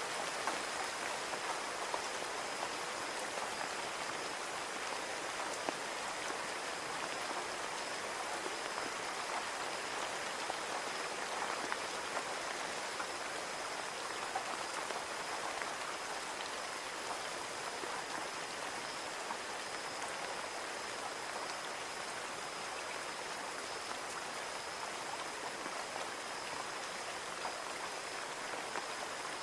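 Steady rain on a window pane: an even hiss of falling rain with scattered small taps of individual drops.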